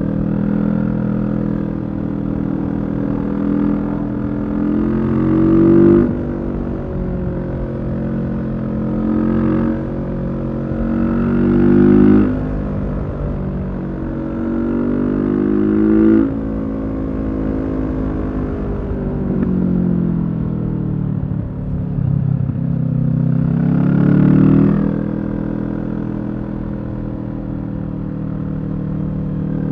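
Kawasaki Z650's parallel-twin engine through a Leo Vince EVO carbon exhaust, accelerating hard through the gears. The pitch climbs and drops sharply at each upshift, four times. In the middle it winds down for a few seconds, slowing on the engine, before it pulls up again.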